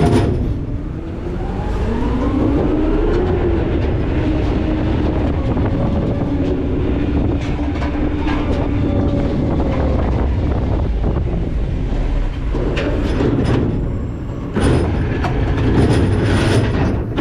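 McNeilus ZR garbage truck working its hydraulics over a steady low rumble: a whine that rises about two seconds in and holds for several seconds, with scattered clicks, then clattering and bangs near the end.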